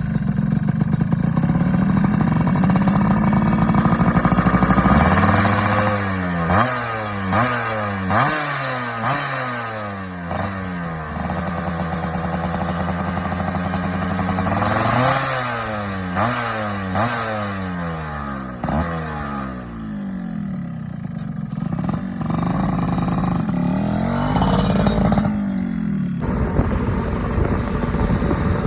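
Yamaha F1ZR 110cc two-stroke single-cylinder engine breathing through a stainless NXL Racing aftermarket exhaust with a carbon silencer, idling and then blipped repeatedly. It comes as three runs of quick revs, about one a second, with steady idling in between.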